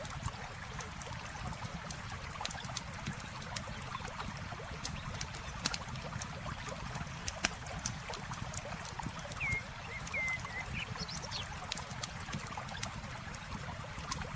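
Wood campfire crackling, with frequent sharp pops, over steadily flowing water. A few short high chirps come about ten seconds in.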